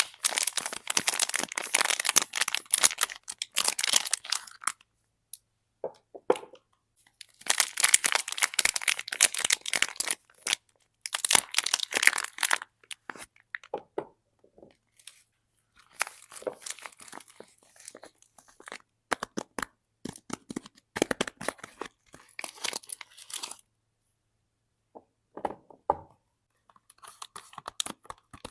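Soap bar packaging being torn open and crinkled by hand, in several runs of crackling tearing a few seconds long with short pauses between.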